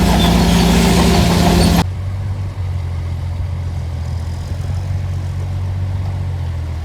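Heavy earthmoving machine's diesel engine running loud with a steady drone. A bit under two seconds in, the sound drops abruptly to a quieter, deep engine rumble.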